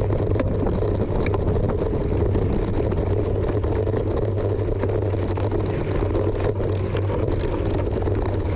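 Steady wind and riding rumble on the microphone of a mountain bike out on a dirt motocross track, with scattered sharp clicks from the bike and the ground.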